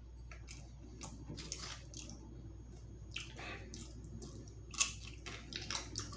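Close-up wet mouth sounds of eating: chewing and lip smacks, with short sharp clicks scattered through and a louder smack nearly five seconds in.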